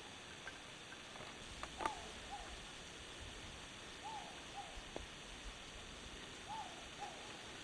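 Faint bird calls: a soft hooting call given in pairs, heard three times about two seconds apart. A sharp click comes about two seconds in and another about five seconds in.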